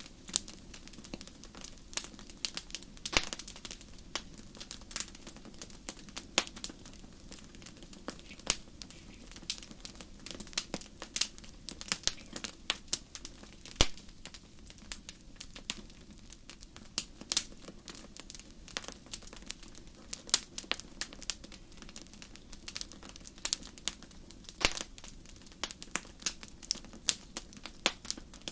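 Wood fire burning in a fireplace: irregular crackles and sharp pops over a soft steady hiss of flames.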